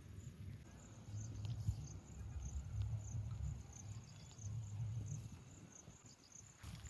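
Crickets chirping in short, even pulses, about three a second, over a low rumble that rises and falls.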